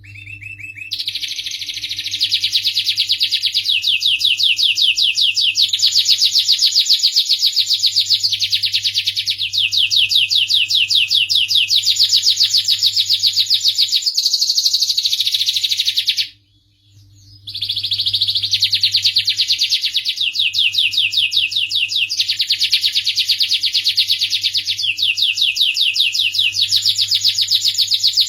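Domestic canary singing long, rapid rolling trills of fast repeated notes, changing from one trill to the next every couple of seconds and breaking off for about a second just past the middle.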